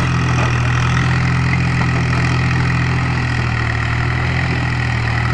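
Tractor's diesel engine running loud and steady.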